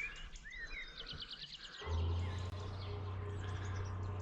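Birds chirping and trilling by the river, joined about halfway through by a steady low mechanical hum that keeps going.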